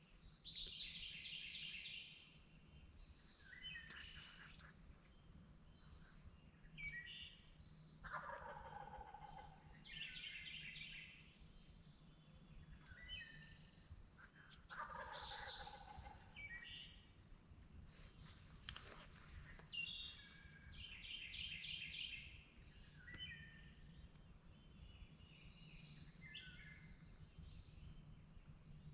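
Wild turkey gobbling again and again, a gobble about every five or six seconds, with small birds chirping in between.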